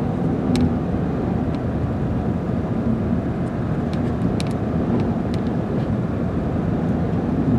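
Steady road and engine rumble inside a car's cabin while it drives along a highway, with a few faint clicks.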